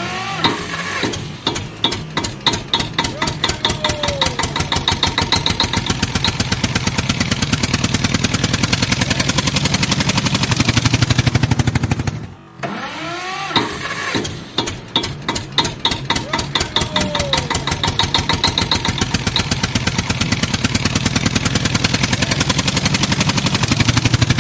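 Tractor engine running with a rapid, even beat of exhaust pulses, its loudness rising and falling as it is worked. The same stretch of engine sound plays twice, with a short break about halfway through.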